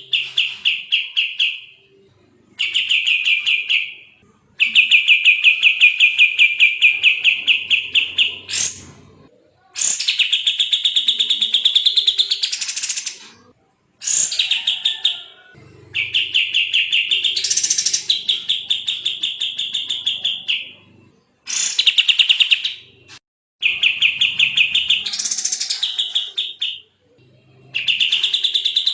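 A kapas tembak songbird singing a run of fast, tightly packed trills: about nine bouts of a few seconds each with short pauses between, several sweeping upward in pitch partway through.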